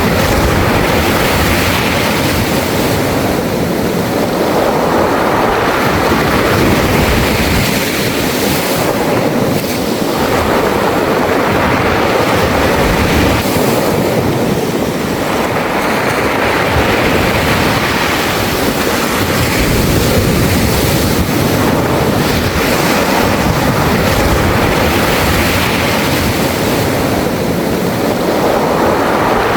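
Sea waves washing up and drawing back over a beach of smooth round pebbles, the surf and the stones rolling in the backwash swelling and easing every few seconds.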